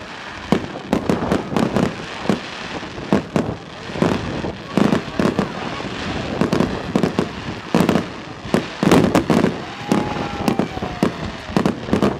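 Fireworks display: many sharp bangs from shells bursting in quick succession, with crackling between them and a thin falling whistle about ten seconds in.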